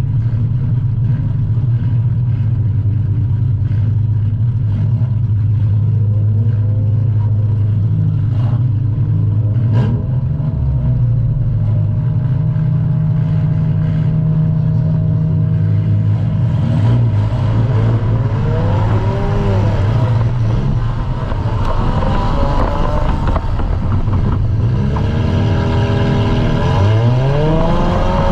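Compact demolition derby car's engine, heard loud from inside the gutted cab: it runs at a steady low drone through the first half, then revs up and down repeatedly through the second half. A couple of sharp knocks sound about a third of the way in.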